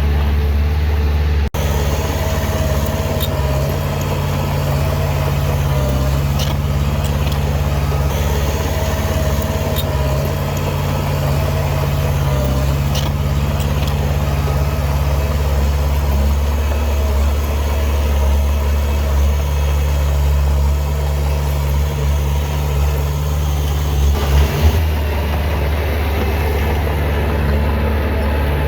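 Heavy diesel engine of an earthmoving machine running steadily at a low, even pitch, with a few faint clicks. The sound drops out for an instant about a second and a half in.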